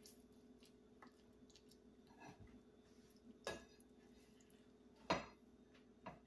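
A few soft knocks of a utensil against a dish, over a faint steady hum: three short strikes, the loudest about five seconds in.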